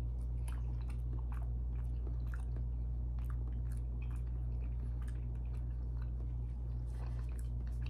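Close-miked chewing of raw salmon sashimi: many small, irregular, wet mouth clicks and smacks, with a steady low hum underneath.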